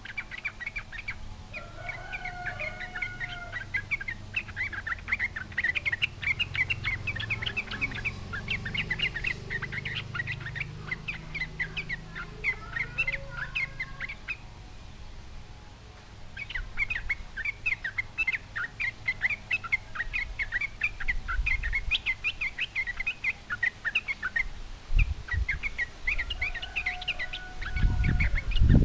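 Yellow-vented bulbul singing a fast, bubbly chatter of many short notes, broken off for about two seconds midway. A few low thumps come near the end.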